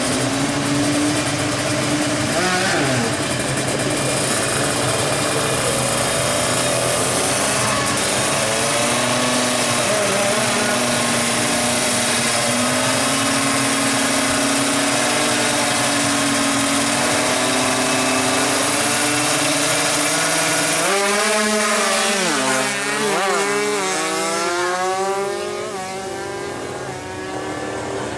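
Two-stroke 155cc drag-racing motorcycle engines running at high revs, more than one at once. About two-thirds of the way through, their pitch sweeps sharply up and down several times as they rev and shift.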